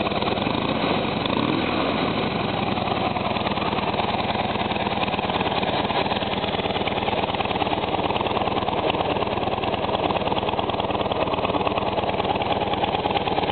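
Harley-Davidson Dyna Wide Glide's Twin Cam 96 V-twin running steadily through its factory stock exhaust, a rapid even pulse from the pipes.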